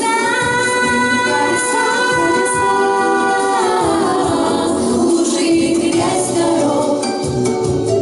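A song: a voice holds one long sung note that slides down about four seconds in, over instrumental accompaniment.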